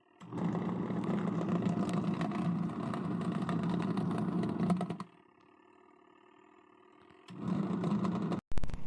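HODEKT mini portable washing machine running with a steady motor hum. It cuts out about five seconds in and starts again about two seconds later, then stops abruptly near the end.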